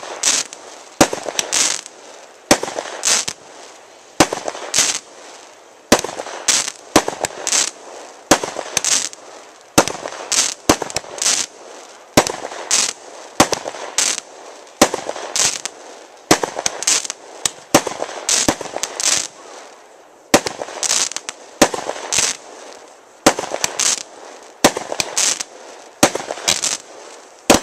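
Fireworks firing in quick succession: sharp bangs at roughly one to two a second, each followed by a short crackling hiss as the gold stars and glitter burst.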